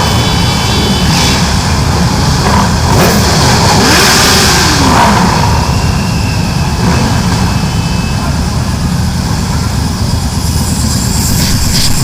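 Motorcycle engines running with a deep, steady rumble, one of them rising and falling in pitch about four seconds in as it revs.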